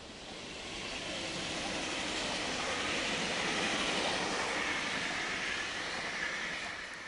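Passenger train passing on a far station track: a steady rush of wheels on rails that builds, peaks around the middle, and fades near the end.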